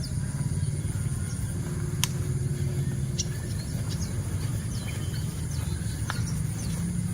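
A steady low rumble with small birds chirping over it, short high chirps coming every second or so.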